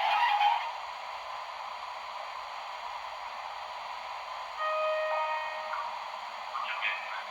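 Sound-decoder audio of a Piko H0 EU07 model electric locomotive: the tail of a loud horn-like blast, then a steady hum, a brief multi-pitched electronic tone about four and a half seconds in, and crackling near the end.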